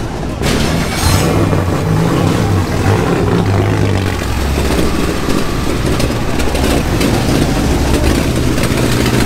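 Vintage racing car engine running loud and low at slow speed, its pitch dropping about four seconds in.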